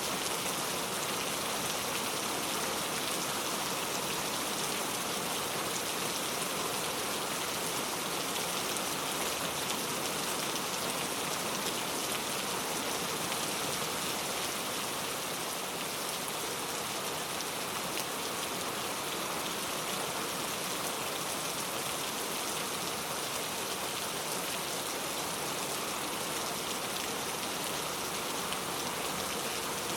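Heavy rain falling steadily and pattering on a leaf-covered road, an even hiss of many drops with no let-up.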